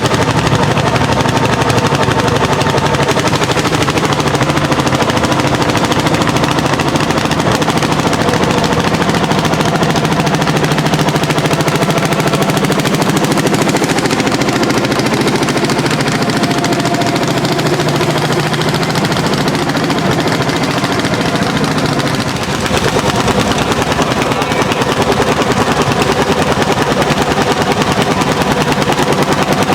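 Landini L55 single-cylinder two-stroke hot-bulb diesel tractor engine working hard under load, its exhaust a loud, fast, steady train of pops. The level dips briefly about three quarters of the way through, then picks up again.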